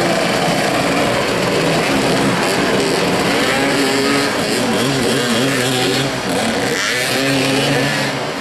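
Several motoball motorcycles' engines revving and easing off as they race around the pitch, their pitches overlapping and rising and falling.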